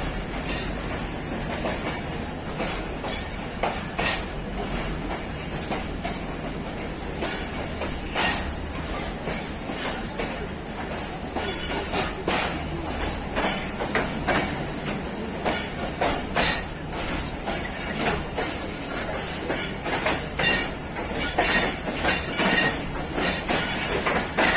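Passenger train's wheels rolling over the rails as it pulls out, with a steady rumble and a clickety-clack over the rail joints. The clicks come faster and louder from about halfway through as the train gathers speed.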